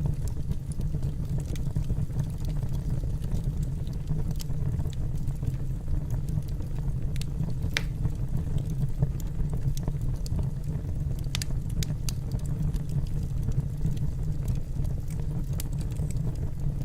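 Wood fire burning in a fireplace: a steady low rumble of the flames with scattered sharp crackles and pops from the logs, one louder pop about eight seconds in.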